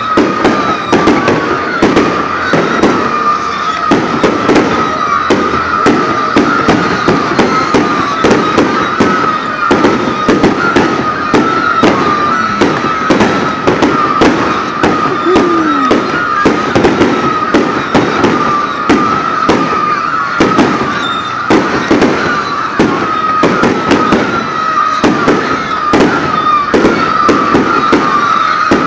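Aerial fireworks going off in quick succession: a continuous stream of sharp pops and crackles, several a second, with a wavering high tone running underneath.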